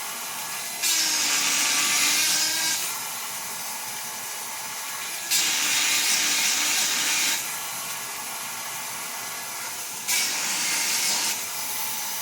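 Granberg 12-volt chainsaw sharpener motor running steadily, with three passes of its grinding-stone bit against chain cutters, each a hissing grind lasting one to two seconds.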